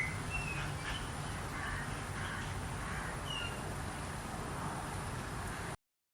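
Birds calling outdoors: a few short chirps and sliding notes with some harsher, caw-like calls, over a steady background hiss and low rumble.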